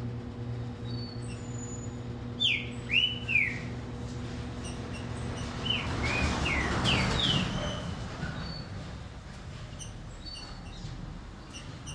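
Green-winged saltator (trinca-ferro) singing: two bursts of loud, clear, arching whistled phrases, about two seconds in and again around six seconds in, over faint short high chirps. A steady low hum runs underneath, and a brief hiss rises with the second burst.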